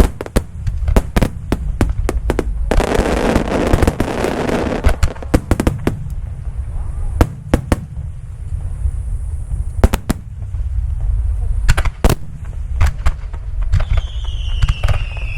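Fireworks display: a rapid series of sharp bangs from shells bursting over a steady low rumble, with a dense stretch of crackling about three seconds in. A high, falling whistle-like tone comes in near the end.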